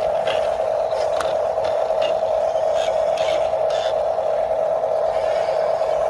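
Steady drone of a small electric drive motor and gearbox of an RC construction model, with faint scattered clicks and scrapes over it.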